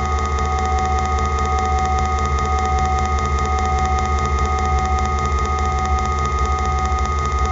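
Steady machine drone: a strong low hum with several steady whining tones above it, unchanging throughout.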